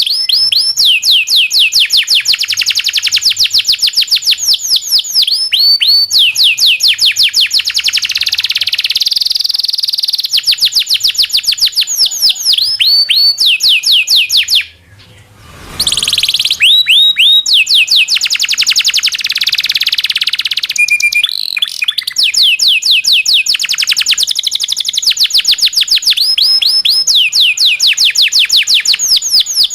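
Domestic canary (local Indonesian canary) singing a long song of fast rolling trills, rapid runs of repeated high notes that change speed and pitch from phrase to phrase. The song breaks off for about a second a little past halfway, then goes on.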